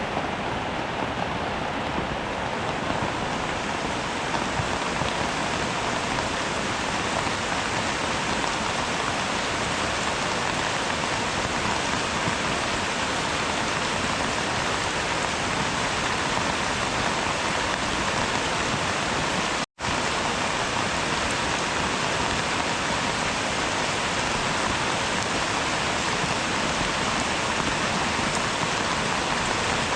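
Steady rain falling, an even hiss with no break except a split-second dropout to silence about two-thirds of the way through.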